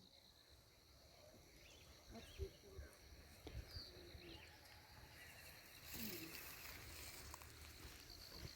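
Faint rural outdoor ambience: a thin steady insect drone with a few short, faint bird chirps, and some low thumps and rustles of handling or footsteps.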